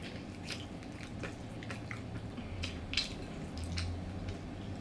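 Close-miked chewing of fried chicken: scattered short crunches and wet mouth clicks, irregular and fairly quiet.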